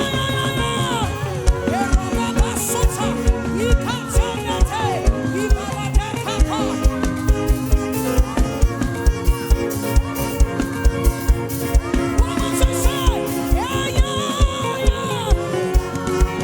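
Live gospel worship band music: a steady, fast beat of low drum thumps under held chords, with a lead line that bends up and down in pitch.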